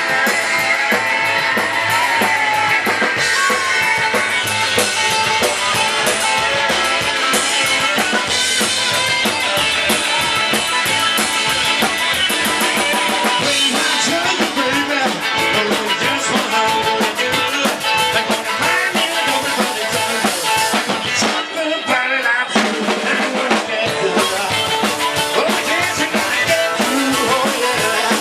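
Live rock and roll band playing an instrumental passage: drum kit with snare and bass drum driving a steady beat under electric guitar. The bass and drums drop out briefly about two-thirds of the way through, then come back in.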